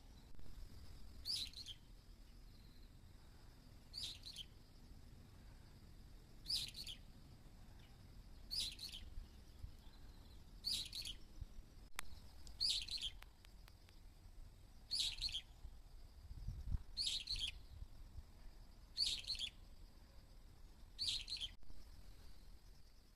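A bird repeating one short, high call about every two seconds, ten times in all, over a faint steady high-pitched hum. The recording is sped up, which raises the pitch and quickens the calls.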